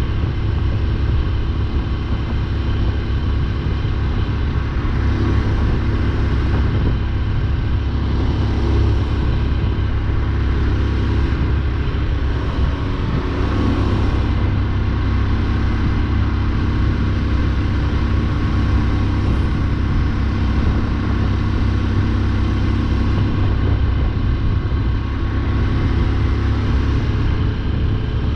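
Motorcycle running at a steady cruise on the road, with a steady low rumble underneath.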